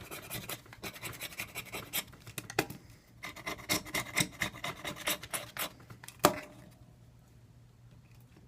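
Rapid scratching strokes of a scraper on a Samsung Galaxy S3's frame, scraping away old screen adhesive, in two runs with a short pause about three seconds in. A single sharp click, the loudest sound, comes about six seconds in.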